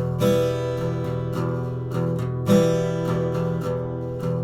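Guitar strummed in the gallop pattern: a continuous run of quick down-up-down strokes on one chord, with a heavier, accented stroke that catches the bass strings about every two seconds.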